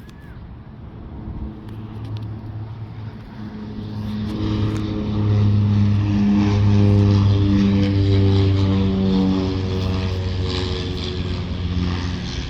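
Propeller-driven military airplane flying in, a steady low drone with overtones that grows louder over the first half and is loudest around the middle.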